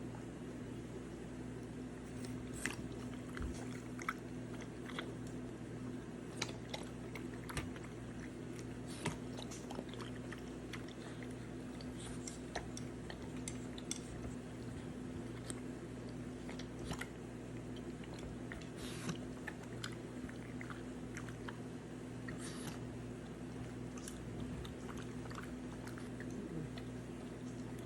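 A French bulldog's mouth sounds: scattered small clicks and crunchy chewing noises, about one or two a second, over a steady low hum.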